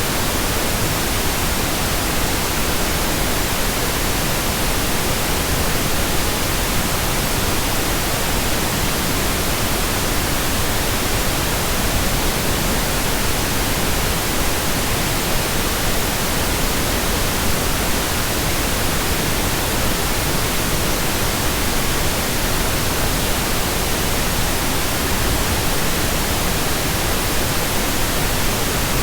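Synthetic pink noise: a steady, even hiss across all pitches, with no changes or events.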